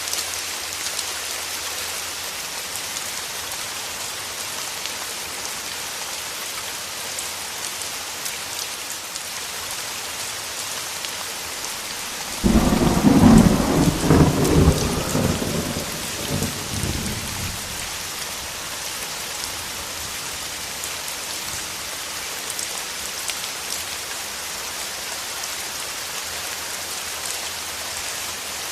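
Steady heavy rain falling, with a single clap of thunder about halfway through that breaks in suddenly, rumbles for a few seconds and fades away.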